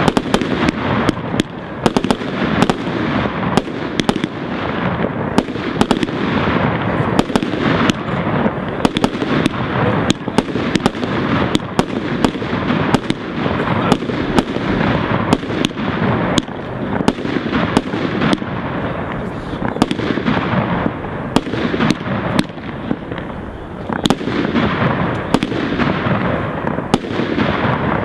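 Fireworks display with aerial shells bursting: a rapid, unbroken series of bangs, several a second, over a dense continuous wash of sound.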